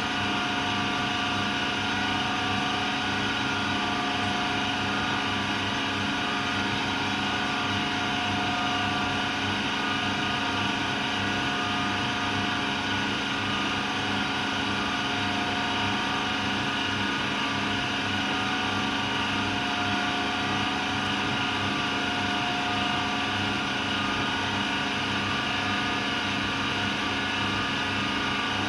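AEG Lavamat Turbo washer-dryer running steadily: an even mechanical hum with several steady whining tones over it, holding at one speed throughout.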